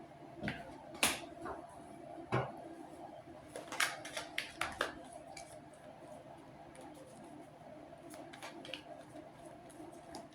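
Tarot cards being handled and laid down: scattered soft taps and flicks, with a quick cluster about four seconds in and a few fainter ones near the end.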